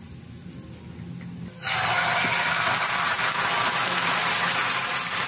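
Canned fish in tomato sauce sizzling in a hot pan of frying onion and garlic. The sizzle starts suddenly about a second and a half in and then runs on steadily.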